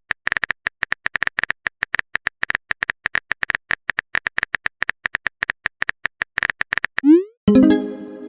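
Chat-app typing sound effect: a fast string of short, clicky beeps. About seven seconds in comes a quick rising pop, then a short pitched chime as a message is sent.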